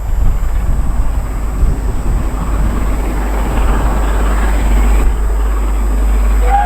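Steam-hauled passenger train passing at speed: a heavy, steady rumble of locomotive and coaches that swells about halfway through, with no whistle sounding.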